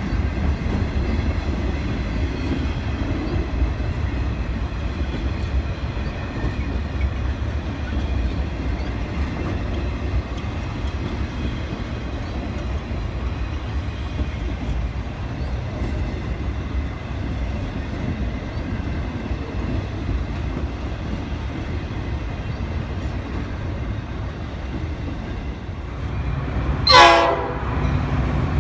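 A train passing with a steady low rumble, then a loud blast of its horn near the end.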